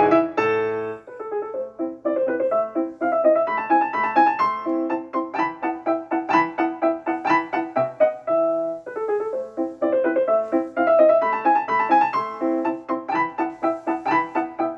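Piano music: a rapid, continuous stream of notes.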